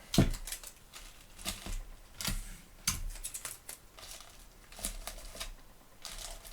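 Hands working magic tape and loose Bible pages: a loud knock just after the start, then scattered short rustles, crackles and tape being pulled and torn.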